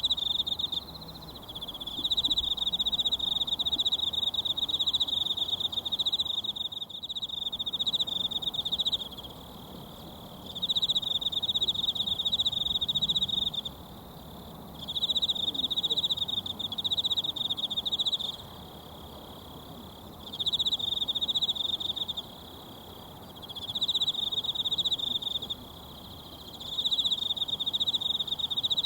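An insect trilling loudly in repeated bouts of a few seconds with short pauses between, about six bouts. Underneath, the faint even rush of a mountain stream.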